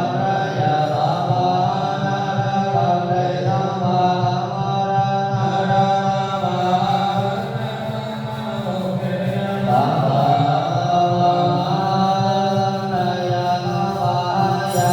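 Buddhist chanting: voices intoning in long, held notes, continuous and even, with a brief softening a little past the middle.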